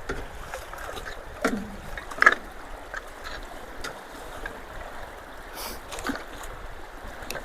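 Water running steadily through a roadway culvert, with several short, sharp splashes; the loudest comes about two seconds in and another at the very end.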